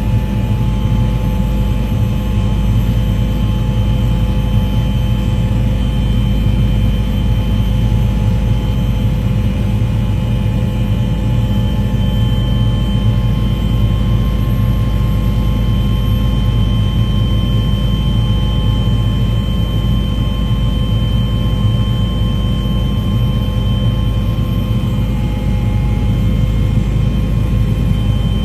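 Aircraft engine drone: a loud, unchanging low rumble with a few steady tones over it.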